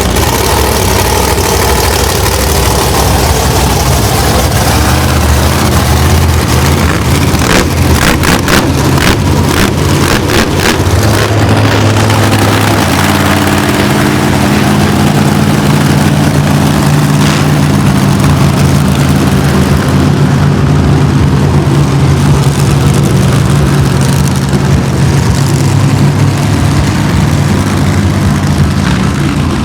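Several monster truck engines fired up and running loud, revving with a run of sharp pops about seven to eleven seconds in, then settling into a steady idle.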